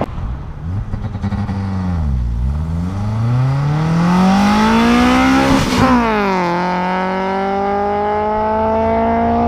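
Modified Honda Civic's 1.5 L D15 VTEC engine accelerating hard. The revs dip, then climb for about three seconds; they drop sharply at an upshift about six seconds in and climb again in the next gear.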